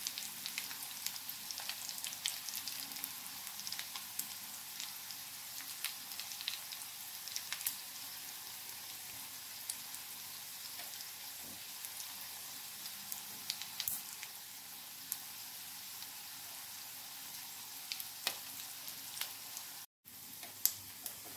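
Rice-and-vegetable patties shallow-frying in oil in a pan: a steady sizzle with fine crackles, which the cook points to as the sound of the patties crisping. The sound breaks off for a moment near the end.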